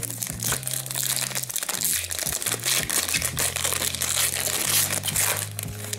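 Plastic hockey card pack wrapper crinkling and crackling as it is opened and handled, over background music with a steady low bass line.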